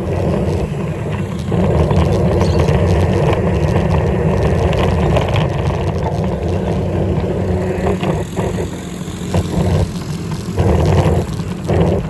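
Continuous riding noise of a bike on the road, a loud steady rumble that dips briefly about eight and ten seconds in.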